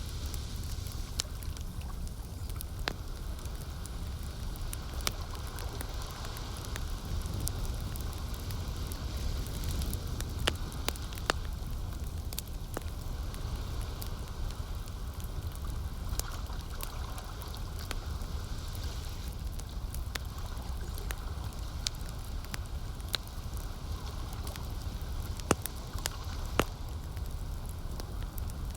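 Campfire crackling, with scattered sharp pops, over a steady low rumble of lake water.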